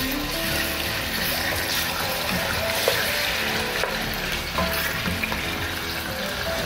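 Raw chicken pieces sizzling in hot oil in a pot while a wooden spoon stirs them, with a few light knocks of the spoon.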